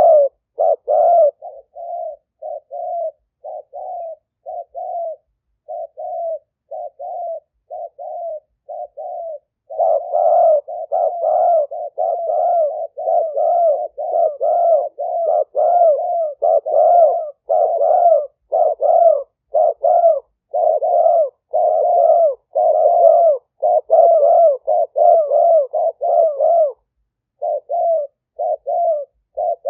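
Spotted doves cooing in repeated short phrases, a decoy's call for luring wild doves. The coos are quieter and evenly spaced for about the first ten seconds, then come louder and denser until near the end, and after a brief pause turn quieter again.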